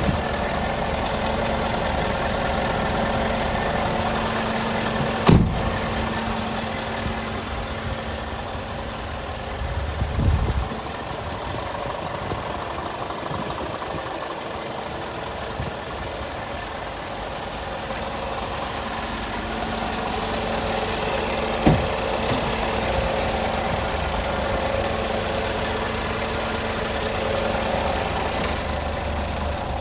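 Scania G440 truck's 13-litre inline-six diesel engine idling steadily. A few sharp clicks or knocks come over it, one about five seconds in and one past twenty seconds, with a low thump around ten seconds.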